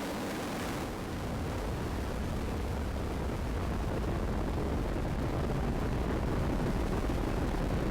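Ares I-X's solid rocket motor burning in flight: a steady low rumble with no distinct tones. Its upper hiss thins about a second in, and it grows slightly louder toward the end.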